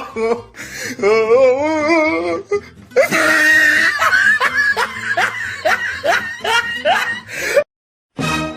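Sound-effect clip of exaggerated laughter: a wobbling, quavering voice, then a run of quick, evenly spaced 'ha' laughs that cuts off abruptly, followed by a brief silence and the start of another clip.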